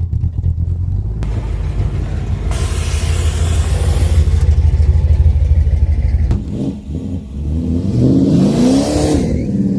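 Car engine running with a loud, pulsing low idle, then revved up and back down once near the end.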